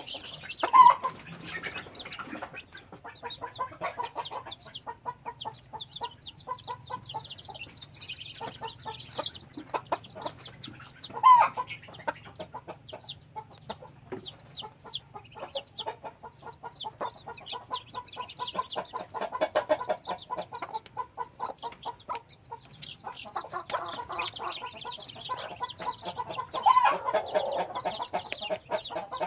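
Flock of chickens clucking continuously, with many short high chirps throughout. Three louder calls stand out: one about a second in, one about eleven seconds in, and one near the end.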